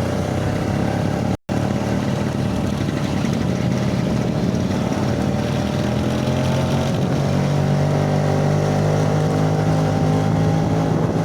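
Vespa scooter engine running steadily under way, its pitch creeping slowly upward in the second half. The sound drops out completely for an instant about a second and a half in.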